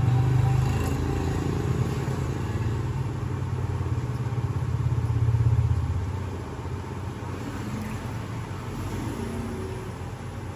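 A low engine rumble that holds steady for about six seconds, then fades to a fainter hum.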